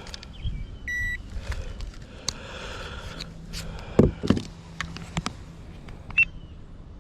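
Fish and gear being handled in a boat: a short electronic beep about a second in, scattered clicks and light knocks, and two heavy low thuds just after four seconds, over a wind haze.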